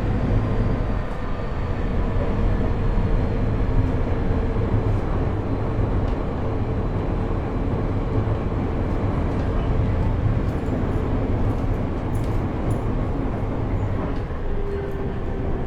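Cabin running noise of JR East E127 series EMU motor car KuMoHa E127-11: wheels rumbling on the rails, with faint Toyo Denki GTO-VVVF inverter and traction-motor gear whine slowly falling in pitch as the train slows for a station stop. This car is known for an abnormal gear whine, with an extra tone a semitone above the usual minor-seventh sound.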